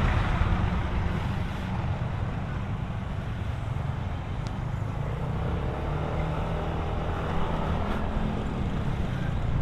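Motor scooter engine running while riding, with steady wind and road noise.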